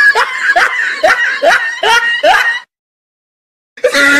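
Laughter: a run of short rising 'ha' sounds, about three a second, that cuts off abruptly two and a half seconds in, leaving dead silence for about a second before it starts again near the end.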